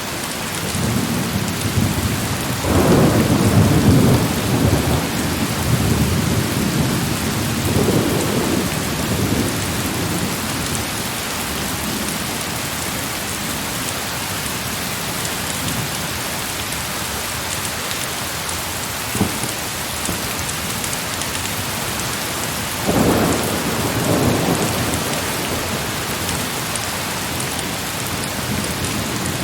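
Steady heavy rain with rolling thunder. A long low roll of thunder builds in the first few seconds, a single sharp crack comes about two-thirds of the way through, and a shorter roll follows after it.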